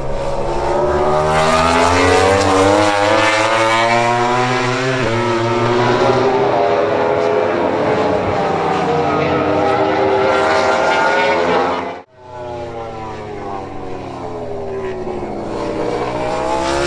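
MotoGP race motorcycle engines running on track, their pitch rising and falling as the bikes accelerate and pass. The sound breaks off abruptly about twelve seconds in and similar engine sound picks up again.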